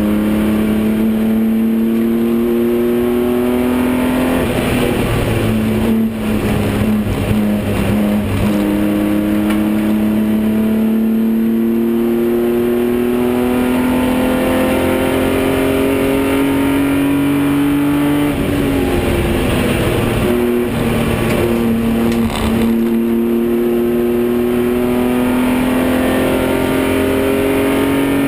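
BMW 325i race car's straight-six engine at racing speed, heard from inside the cabin, its pitch climbing steadily in long pulls and falling away a few times, about five seconds in, at around eighteen seconds and at around twenty-two seconds.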